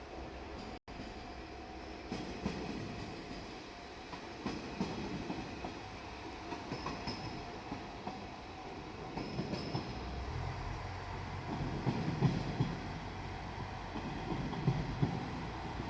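Diesel multiple-unit train running on the track, its wheels knocking over rail joints, with a deeper engine rumble growing from about ten seconds in.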